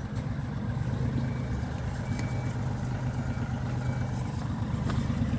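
A vehicle engine idling steadily, an even low drone, with a light click near the end.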